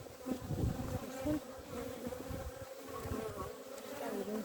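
Honeybees buzzing around an opened hive: a steady hum whose pitch wavers as individual bees fly close, with a few low bumps underneath.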